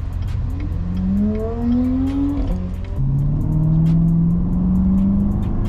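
Chevrolet Corvette C7's V8 engine accelerating through the gears over a steady low rumble. Its pitch climbs, drops with an upshift about two and a half seconds in, then climbs slowly again.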